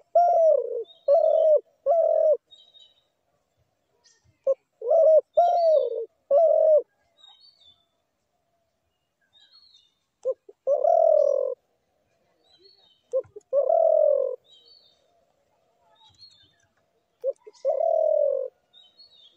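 A dove cooing: two phrases of three or four short coos in quick succession, then three longer single coos several seconds apart, each led by a brief note. Small birds chirp faintly in the background.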